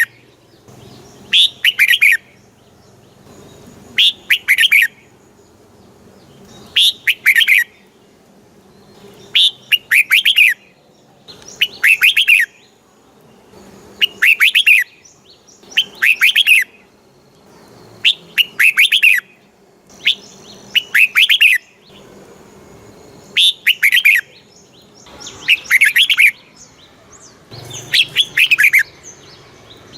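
Red-whiskered bulbul singing: one short, chirpy phrase of a few quick notes, repeated about every two and a half seconds.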